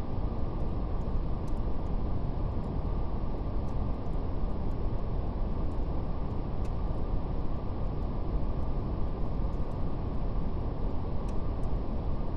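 Steady brown noise, a deep even hiss weighted toward the low end, with faint, irregular crackles of a fire ticking through it.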